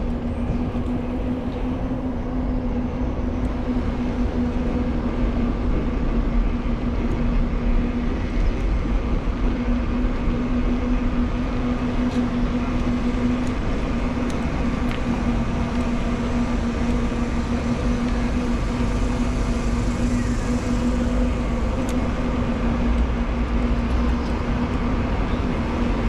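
Steady urban traffic noise with a low rumble and a constant low hum.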